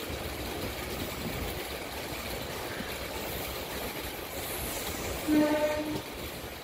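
MEMU electric train running along the track, heard from on board as a steady rumble and rail noise. About five seconds in there is a short steady-pitched tone lasting under a second.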